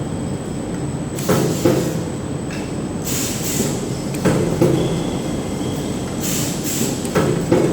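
Filter-cage bottom cap welding machine running through its cycle: a steady machine hum with a pair of sharp clanks about every three seconds and short bursts of hiss between them.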